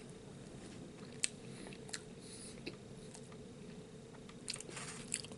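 Quiet chewing while eating tamales, with a few faint mouth clicks, one at a time and then a small run near the end.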